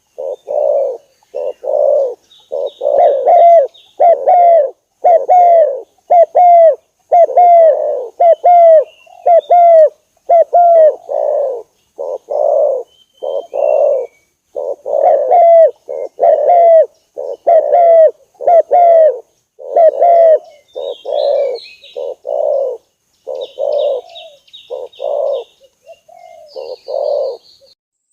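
Spotted doves (tekukur) cooing over and over in short, rolling coos, one or two a second. A lure call for attracting wild spotted doves, with small birds chirping high in the background.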